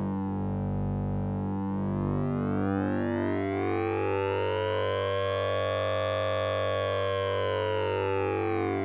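Synthesizer drone from the Orange Vocoder plugin, using oscillator sync and ring modulation. It holds a steady low pitch while its bright overtones sweep slowly up, peak about six seconds in, and fall back, like a slow siren.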